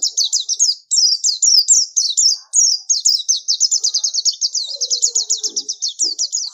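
White-eye (pleci) singing a fast, unbroken-sounding warble of rapid high, down-slurred notes, pausing briefly about one second and two and a half seconds in.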